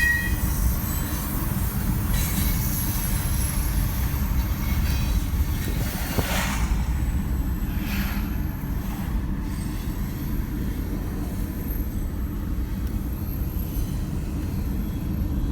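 A freight train of hopper cars rolling past with a steady low rumble, and a faint high-pitched squeal now and then.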